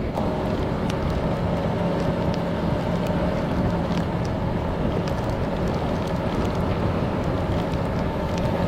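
Motorcycle engine running at a steady speed, with wind rushing over the rider's microphone.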